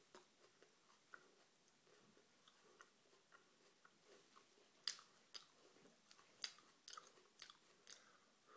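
A person chewing a fresh bird's eye chilli, seeds and all: soft, quiet chewing with short crisp crunches that come sharper and more often from about five seconds in.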